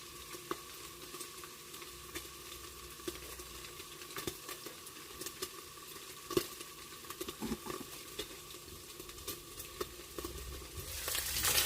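Pork frying in a pan, sizzling with scattered pops and crackles as it browns. The sizzle gets much louder about eleven seconds in.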